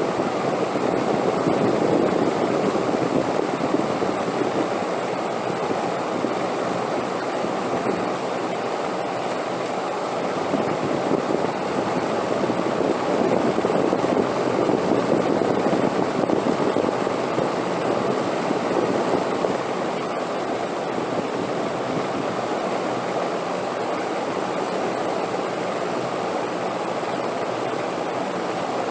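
Wind blowing steadily, swelling twice in slow gusts and then settling to an even rush.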